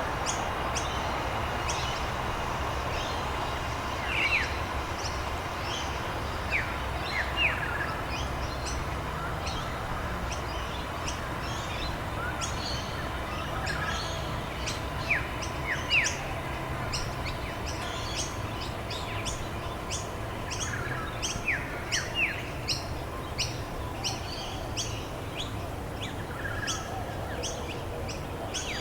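Many birds chirping and calling, short high chirps repeating every second or so with a few gliding whistled notes among them, over a steady background hiss.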